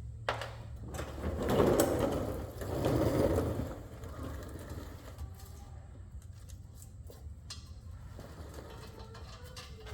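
Two short runs of a tool's mechanical rattle, about a second each, followed by scattered light clicks and knocks of work on the car.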